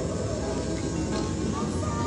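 Passenger train running along the track, a steady rumble heard from inside the carriage, with music playing over it.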